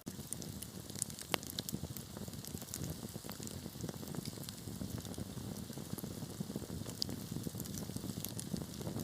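Wood fire crackling: frequent sharp pops and snaps from burning logs over a steady low rush of flames.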